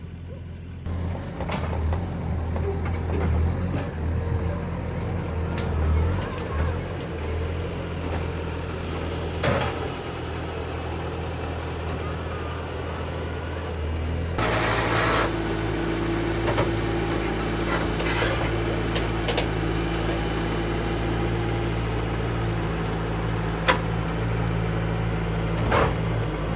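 A vehicle engine running steadily, with a few clunks. About halfway through the engine note changes abruptly with a brief hiss, then a steady whine runs for several seconds.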